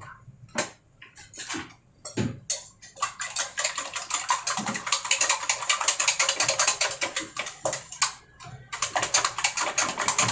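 Egg and soy sauce being beaten in a bowl with a utensil: a few separate taps, then rapid steady clicking from about three seconds in, stopping briefly near the end and starting again.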